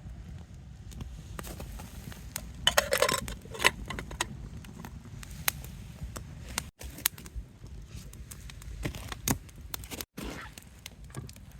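Campfire crackling, with sharp irregular clicks and pops over a low steady rumble, and a brief louder clatter about three seconds in, like cookware or utensils being handled.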